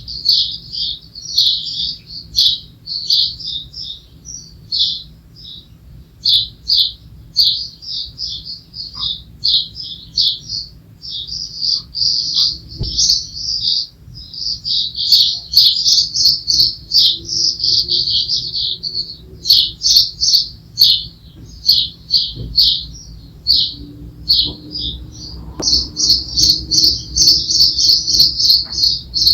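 Small birds chirping busily, a rapid run of high-pitched notes with hardly a pause.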